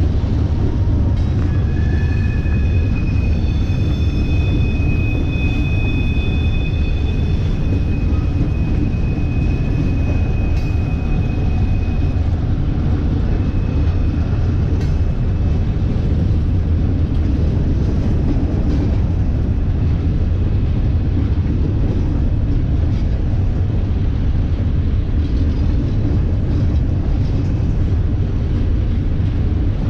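A train rolling past with a steady, heavy rumble of wheels on rail. Faint high-pitched wheel squeals sound over roughly the first ten seconds.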